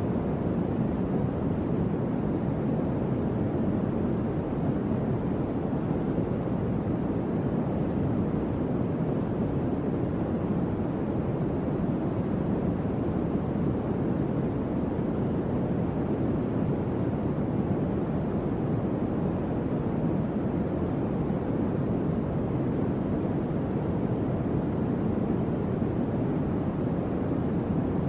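Electric fan running with a steady, even whoosh of moving air, mostly low and mid-pitched, with no hum or rattle.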